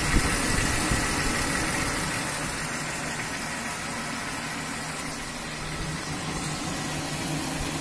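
BMW M52 single-VANOS straight-six idling with its characteristic knock, heard toward the front right fender. The owner traces the knock to the lower front of the engine by the oil pan and to worn clearances leaving too thin an oil film.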